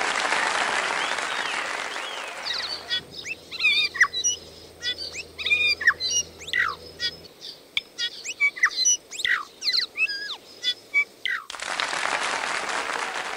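Applause, then a native New Zealand bird's song: a varied run of clear whistles, sharp clicks and quick rising and falling notes lasting about nine seconds, followed by applause again.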